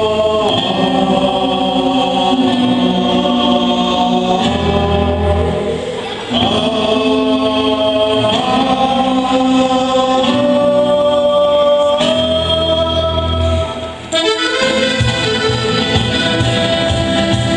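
Live band music led by accordion, playing held chords that change every few seconds, with two brief dips between phrases.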